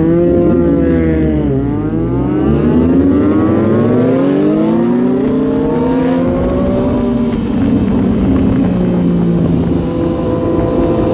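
Motorcycle engine. Its pitch falls for about a second and a half, then climbs steadily for several seconds as it accelerates, and then holds at a steady cruise.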